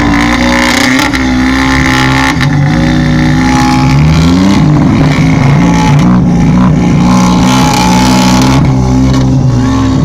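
Car engine and exhaust being revved loudly, the engine note climbing and falling several times.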